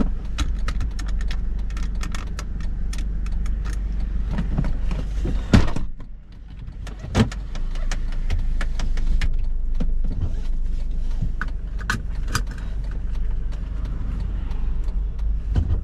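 Car driving, heard from inside the cabin: a steady low rumble of engine and tyres with frequent small clicks and rattles, and a sharper knock about five and a half seconds in.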